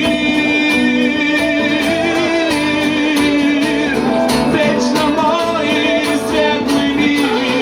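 Live band music continuing after the last sung line: a band of guitar, bass, percussion and violin playing, with held, wavering melody notes over the accompaniment.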